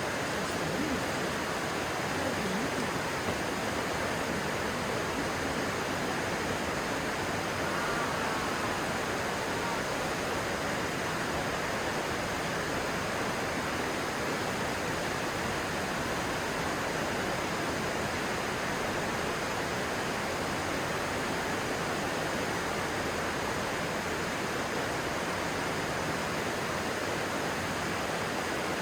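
Steady rushing of a stream's flowing water, an even unbroken noise.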